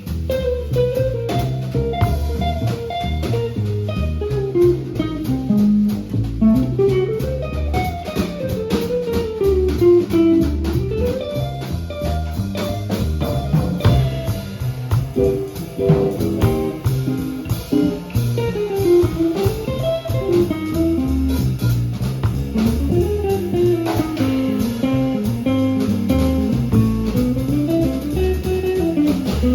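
Jazz guitar playing quick single-note runs that climb and fall, over a bass line and a light drum beat.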